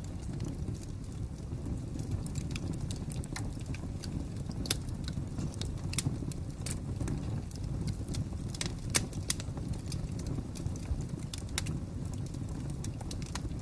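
Wood fire crackling: irregular sharp snaps and pops over a steady low rumble, with one louder pop about two-thirds of the way through.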